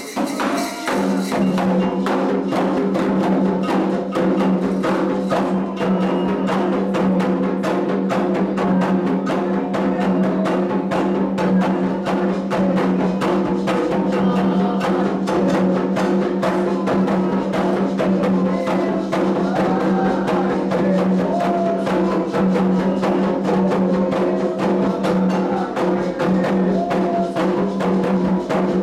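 Candomblé atabaque drums playing a dense, steady ritual rhythm with other struck percussion, accompanying the dance of the orixá Oxum.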